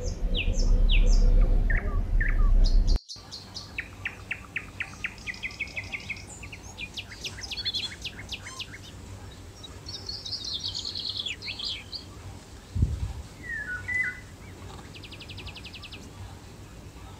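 Small birds chirping and trilling: runs of quick chirps and short songs, with a fast, even trill near the end. For the first three seconds a loud low rumble lies under the chirps and then cuts off suddenly.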